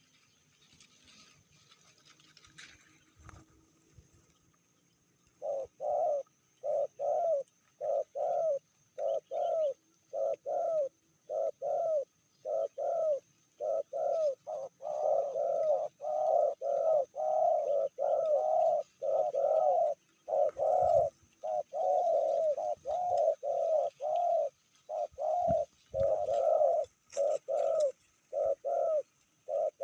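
Spotted dove cooing: a long run of short repeated coos, about two to three a second, starting about five seconds in.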